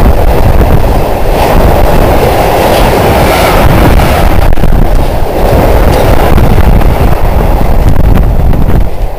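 Freight train of empty stake-equipped flat wagons rolling past close by, loud and unbroken: wheels rumbling and clattering over the rails.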